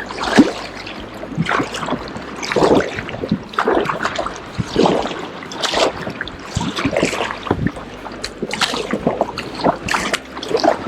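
Kayak paddle blades dipping and splashing in sea water, with irregular splashes roughly once a second and water sloshing against the hull.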